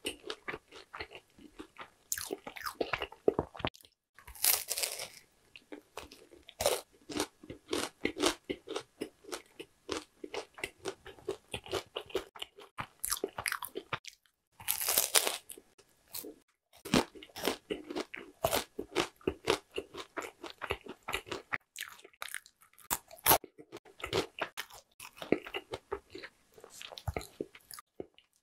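Close-miked crunching and chewing of oranda, a hard syrup-bound bar of fried dough puffs. Loud bites land about four seconds in and again around fifteen seconds, with rapid crunches between them.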